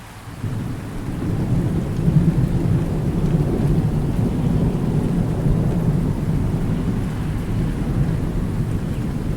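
Rolling thunder rumbling low over steady rain. It starts briefly quieter, swells from about a second in, peaks about two seconds in, and then rumbles on steadily.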